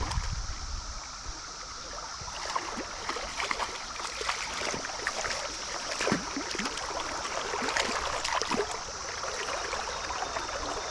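Stream water running, with irregular small splashes and clicks, and a steady high drone under it.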